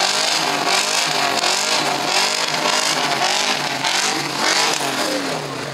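Many Ford Mustang V8 engines revving at once, their overlapping engine notes rising and falling in repeated throttle blips.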